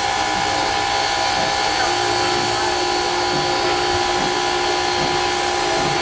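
Steady hiss of steam from a narrow-gauge steam locomotive, with several steady tones held through it; a lower tone joins about two seconds in.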